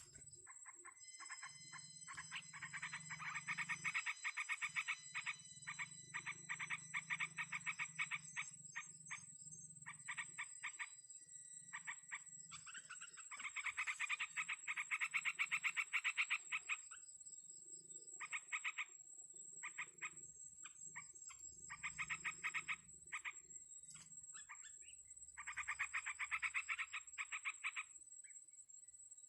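Rapid, evenly repeated pulsed animal calls coming in bouts of one to several seconds, with short gaps between them, over a steady high-pitched whine.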